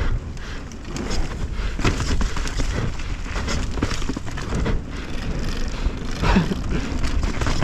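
Mountain bike rolling along a trail: steady tyre rumble with frequent clicks and rattles from the chain and frame over bumps.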